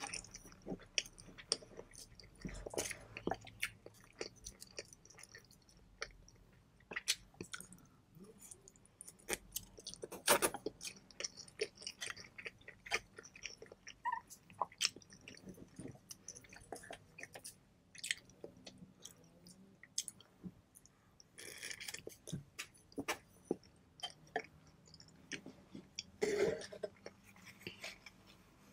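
Close-miked eating sounds: a person chewing pho noodles, with many scattered short mouth clicks and smacks at an uneven pace.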